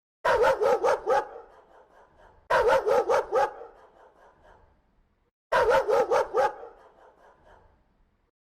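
A fierce dog barking in three quick volleys of about five barks each, a couple of seconds apart, each volley trailing off in an echo.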